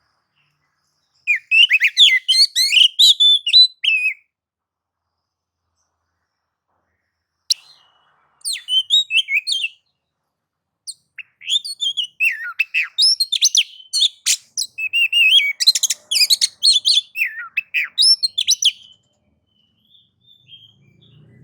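Oriental magpie-robin (kacer) singing loud, rapid, varied song phrases in three bouts with short pauses between them: the agitated, fired-up 'nagan' song.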